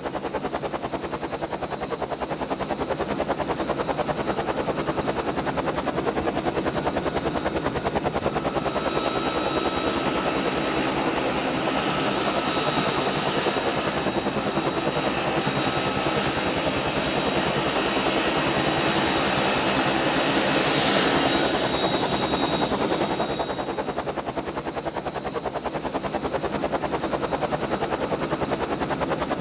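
Helicopter in flight heard from on board: a steady fast rotor beat with a high turbine whine. It grows louder and rougher from about eight seconds in, then eases back a few seconds before the end.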